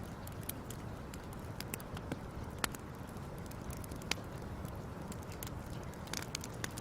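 Fire crackling: a steady low rush of burning with scattered sharp pops and snaps, two louder pops a little under three and about four seconds in.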